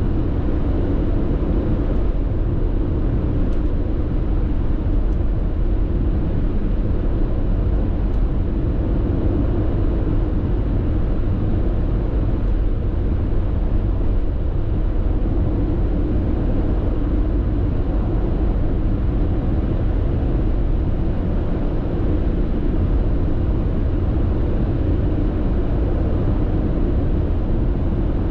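Steady road and tyre noise inside a car cruising at constant highway speed: an even low rumble with engine and wind hiss, unchanging throughout.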